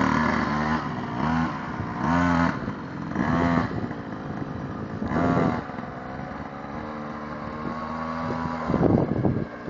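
Mini bike engine revved in short bursts, about five blips of the throttle, then running more steadily before another rev near the end.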